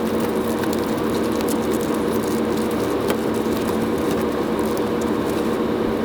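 Steady hum of an HVAC indoor air-handling unit, with many small crackles and rustles as the air filter is worked out of it.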